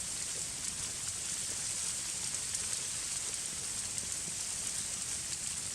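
Heavy wet snow falling onto a tarp shelter and the surrounding forest, a steady hiss with faint light pattering.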